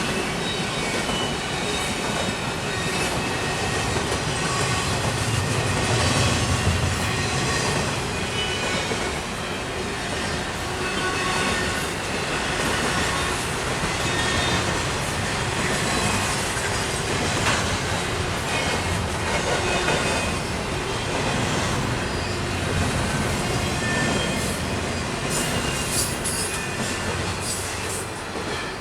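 CN intermodal double-stack freight cars rolling past steadily, with a continuous rumble, scattered short high-pitched wheel squeals and clickety-clack over the rail joints. A cluster of sharp clacks comes near the end as the sound begins to ease.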